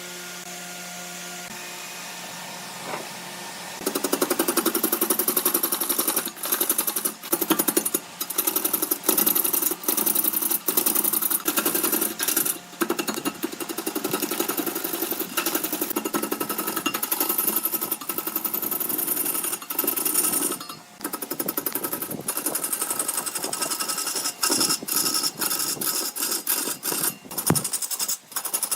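Large wood lathe humming steadily, then from about four seconds in a turning tool cutting into the spinning wood: a loud, rough, chattering scrape broken by many short pauses.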